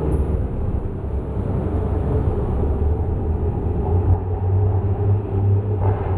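Toyota 1JZ-GTE VVTi turbocharged straight-six in a Supra MK3 running steadily at idle through a custom 3-inch exhaust and JASMA muffler, a deep even exhaust rumble with no revs.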